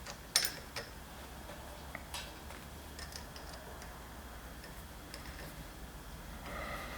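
Faint metallic clicks and small taps as steel tooling parts (collet, draw screw and adapter) are handled and fitted together. The clicks are sharpest in the first second, with one more about two seconds in, then only light ticks.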